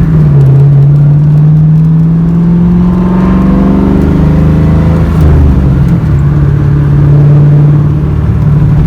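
Built 2002 Mustang GT's 4.6-litre four-valve V8 running through a muffler-deleted exhaust: a loud, steady drone whose pitch rises a little in the first few seconds and shifts around the middle.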